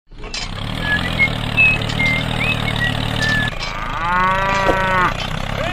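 A cow moos once near the end, a single long call that rises and then falls. Before it, a steady low hum with short bird chirps over it stops abruptly just before the moo.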